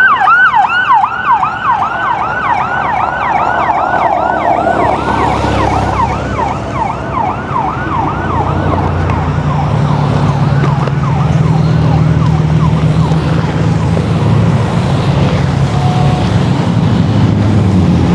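Yelping siren sweeping up and down about three times a second, fading away over the first ten seconds, as the drone of the motorcycle parade's engines builds and takes over.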